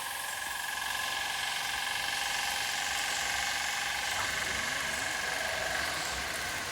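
Motorcycle running steadily on the road while being ridden: an even engine and road noise with a faint steady whine.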